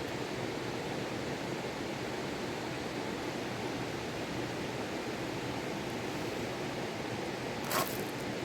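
Steady rushing of river water, an even noise with no let-up. A brief sharp sound cuts in once near the end.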